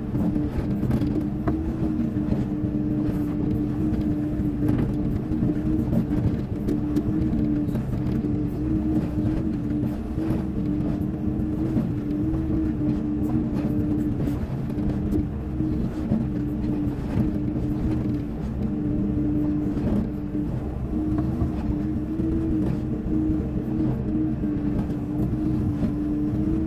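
Diesel engine of a Hyundai 140 wheeled excavator running at a steady pitch, with a few faint clicks over it.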